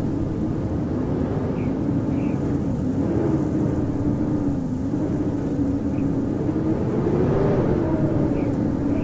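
Howling blizzard wind: a steady rush with a low moaning tone that wavers up and down in pitch.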